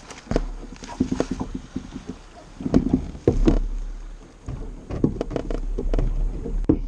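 Irregular knocks, bumps and clicks on a kayak as a freshly landed fish and gear are handled aboard, with a low rumble of wind or handling on the microphone that comes and goes.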